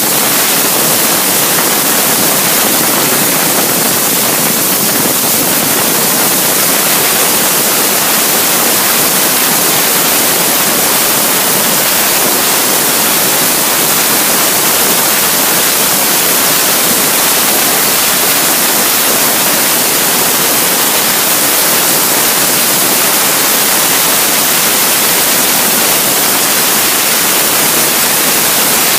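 A loud, unchanging hiss like static, with no rhythm or separate sounds in it and little low rumble.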